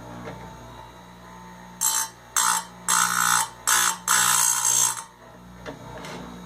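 Electric chainsaw-chain grinder with its motor humming steadily, and five short bursts of grinding of uneven length, from about two seconds in until about five seconds in, as the spinning wheel is brought down onto the chain's cutters one after another.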